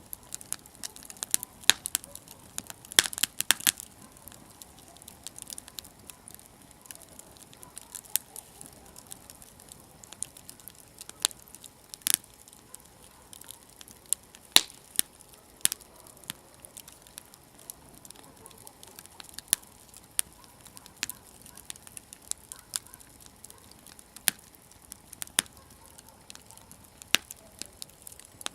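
Wood campfire burning and crackling: irregular sharp pops and snaps from the burning wood over a faint hiss, with a quick flurry of pops about three seconds in.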